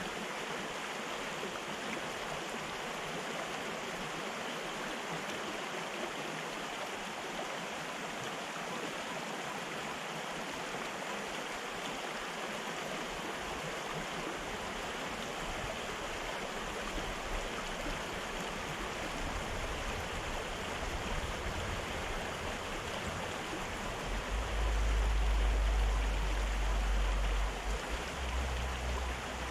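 Fast-flowing river rushing steadily, with a deep low rumble that builds over the second half and is loudest a few seconds before the end.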